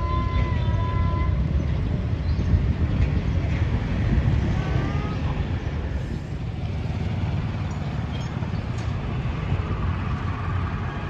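A cat meowing: a long drawn-out meow that ends about a second in, then a short rising meow about five seconds in, over a steady low rumble.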